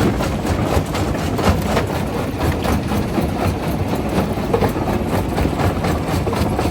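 Primary jaw crusher running under load: a steady low mechanical rumble with frequent irregular cracks and knocks of rock being broken between the jaws.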